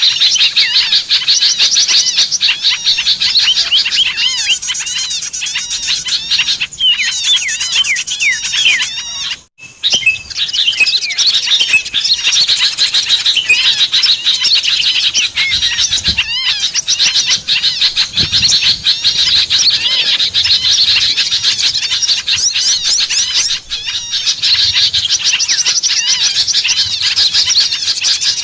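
Dense, continuous chattering of small songbirds, many rapid high chirps and trills overlapping: a recorded bird-call lure played to draw in small birds. The sound cuts out for a moment about nine and a half seconds in, then resumes.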